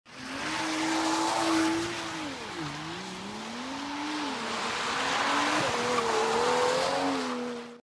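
VW Golf 5 GTI's turbocharged 2.0 TSI four-cylinder, with catless downpipe and Bull-X axle-back exhaust, running hard under acceleration. Its pitch falls steeply about two and a half seconds in and then climbs again, jumps up suddenly near the end, and the sound cuts off abruptly.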